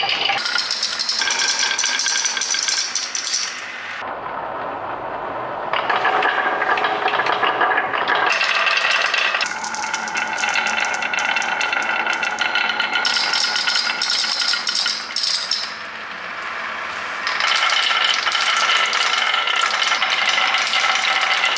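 Marbles rolling and clattering along a marble run: dense rapid clicking and rattling with ringing tones. The sound shifts in character every few seconds, a little quieter around four and sixteen seconds in.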